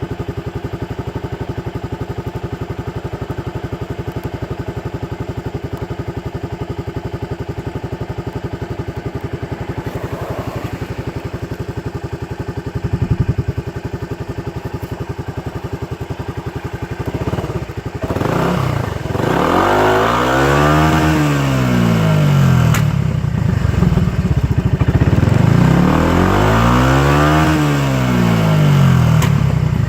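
Suzuki Skywave 250 SS scooter's single-cylinder engine idling evenly with a steady exhaust pulse, given a brief blip of throttle partway through. It is then revved twice, each time rising smoothly and falling back, in an engine start check.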